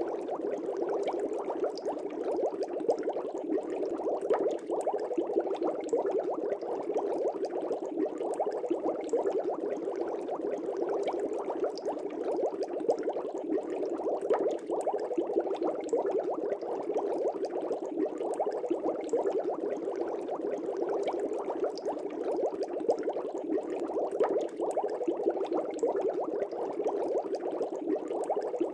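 Fish tank aeration bubbles rising and bursting at the water surface: a steady, dense bubbling.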